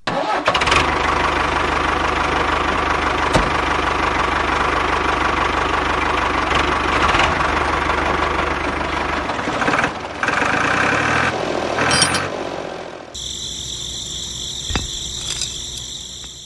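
Engine running steadily with a low, knocking pulse, like a tractor engine; it changes and grows quieter about three seconds before the end.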